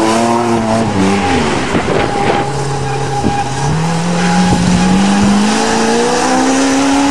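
Vehicle engine revving hard while doing donuts: its pitch drops about a second in, then climbs steadily under throttle for the rest, as the four-barrel carburettor opens up.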